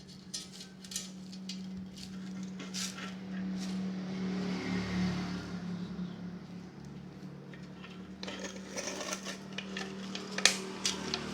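Metallic clinks and scrapes from a stainless steel motorcycle exhaust's springs and slip joint being pulled apart with a hooked wire, the joint stiff to separate, with a sharp clink about ten and a half seconds in. A steady low hum runs underneath.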